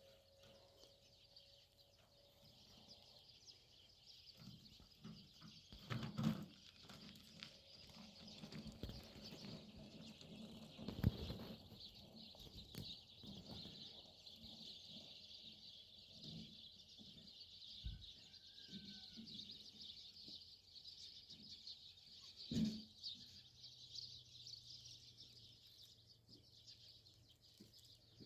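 Quiet outdoor ambience: a steady high-pitched chirring chorus, with a few scattered knocks and thumps, the loudest about six, eleven and twenty-two seconds in.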